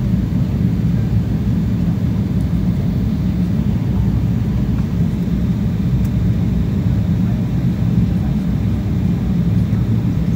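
Steady rumble and rush of an Embraer E190 airliner's cabin in flight: its GE CF34-10E turbofan engines and the airflow over the fuselage, heard from a window seat behind the wing.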